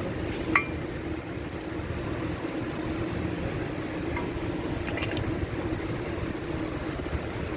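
A few light metallic clinks of hand tools on engine parts during an engine teardown, the loudest about half a second in, over a steady machine hum.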